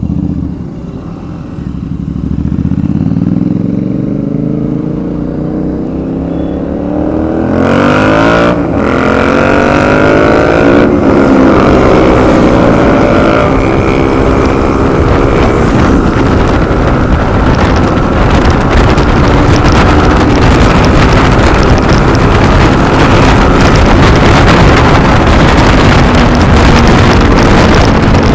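Motorcycle engine accelerating hard, its pitch rising, with two quick breaks as it shifts up, then holding a steady high note at speed with wind rushing over the microphone.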